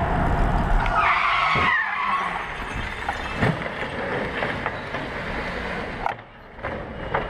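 Car tyres skidding, with a brief squeal about a second in over steady road noise, followed by a few sharp knocks.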